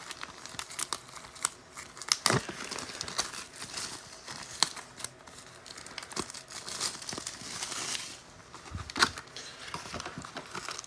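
Trading card packaging being torn open: plastic wrap crinkling and tearing, with irregular sharp crackles and a few louder rips.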